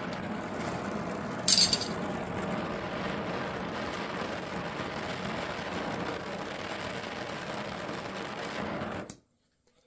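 Oxy-fuel torch with a brazing tip burning steadily as it heats small square bar stock, with one short sharp clink about a second and a half in. The sound cuts off suddenly near the end.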